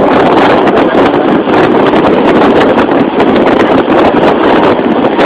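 Loud, steady rush of wind on the microphone aboard a moving boat.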